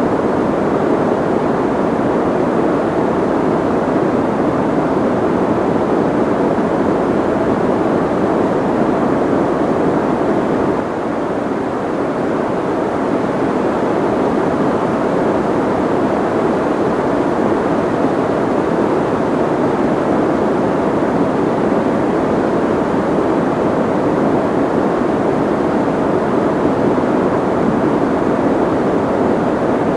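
Soft white noise: a steady, even hiss-like rush, fullest in the low and middle range with the highs rolled off. It dips slightly in level for a moment about eleven seconds in.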